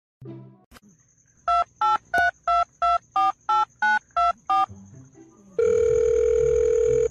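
Telephone keypad touch-tones: eleven quick, evenly paced two-note beeps as a number is dialed. About a second after the last beep, a loud steady telephone tone begins.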